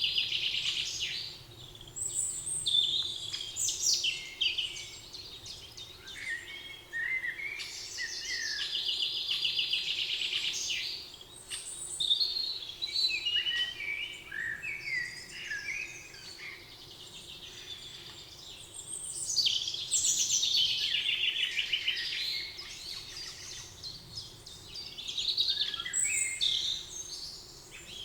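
Several songbirds singing at once: overlapping chirps and warbled phrases with repeated fast trills, over a faint steady background hum.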